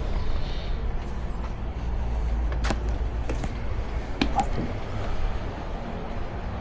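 Steady low rumble of a moving water-ride boat on an interactive water-shooter ride, with a few sharp knocks, one about two and a half seconds in and a pair a little past four seconds.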